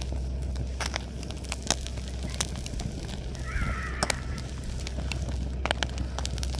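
Campfire wood crackling and popping in irregular sharp clicks over a steady low hum, with a single short call about halfway through.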